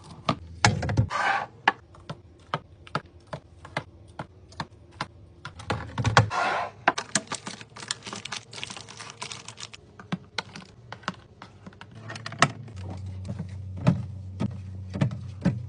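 Rapid small clicks and clacks of items and plastic containers being set down and arranged in a refrigerator, with two short stretches of rustling. A low hum comes in near the end.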